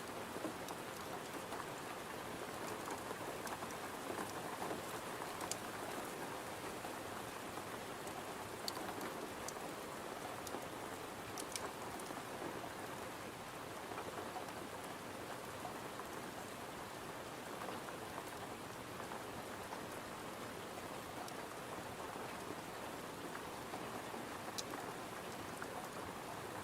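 Steady rain pattering, with a few faint sharp clicks scattered through it.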